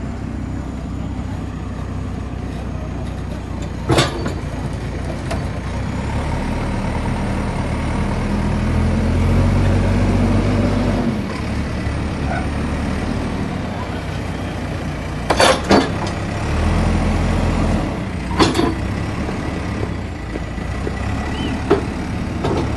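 Heavy vehicle engine running steadily, growing louder twice, with several sharp knocks or bangs over it.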